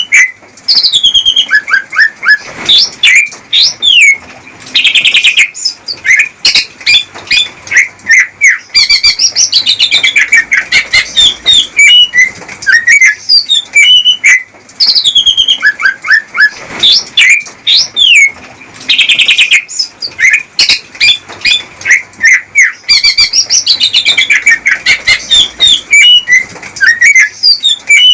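Male green leafbird (cucak ijo) singing its courtship song to a female: a rapid, unbroken run of varied chirps, trills and sliding whistles.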